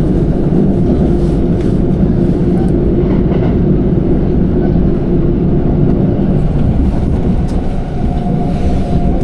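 Passenger train in motion, heard from inside the carriage: a steady low rumble of wheels and running gear with a steady hum, and a higher hum joining about seven seconds in.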